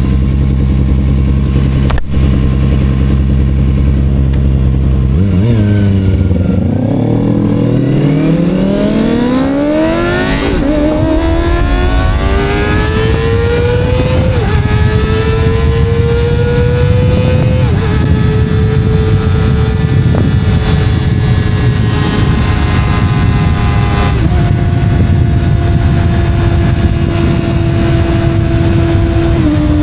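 250 cc Kawasaki sport bike engine at a steady low speed, then revving up hard with its pitch climbing from about five seconds in. It shifts up several times, the pitch stepping down at each shift, and cruises between shifts, over steady wind and road noise.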